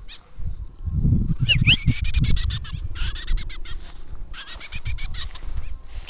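Short bird calls: two quick rising-and-falling chirps about a second and a half in, then rougher, scratchy stretches later on, over wind buffeting the microphone.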